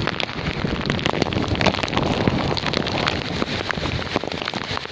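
Heavy typhoon rain pouring down, with many drops striking close by in a dense, steady patter.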